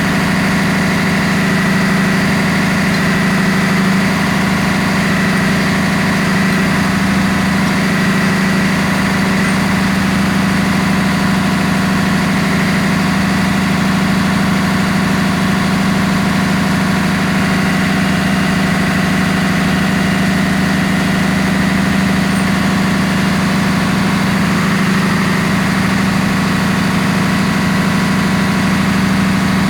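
Loud, steady drone of ship's engine-room machinery running, with a strong low hum and a thin steady whine above it.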